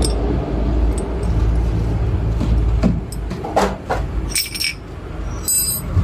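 Metal parts and tools clinking and knocking as an ST64 pneumatic concrete nail gun is taken apart: a few light knocks, then bright metallic clinks a little after the middle and again near the end, over a steady low background rumble.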